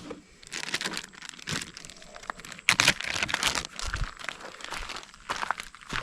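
Food packaging crinkling and rustling as it is handled and torn open, in irregular bursts, with the loudest crinkle near the middle.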